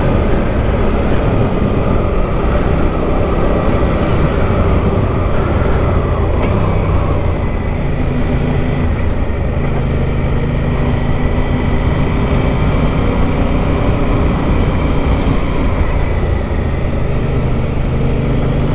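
Motorcycle engine running while riding, with steady wind rush. The engine note changes pitch about six seconds in, then holds fairly steady.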